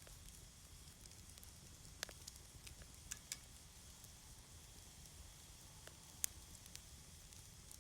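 Wood fire crackling faintly, with scattered sharp pops; the loudest comes about six seconds in.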